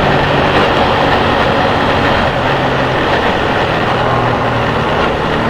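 Steady rushing noise of riding a motorcycle in rain, picked up by a helmet camera's external microphone, with a low engine hum underneath.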